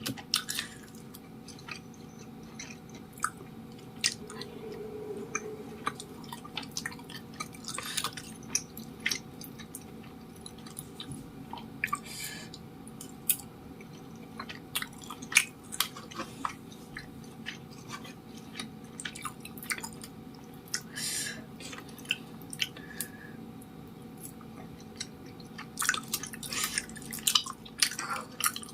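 Close-miked chewing of cilok, chewy tapioca-starch balls, with short wet mouth clicks at irregular intervals.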